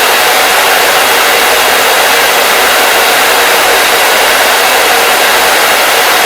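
Hair dryer running steadily, a loud even blowing rush without change.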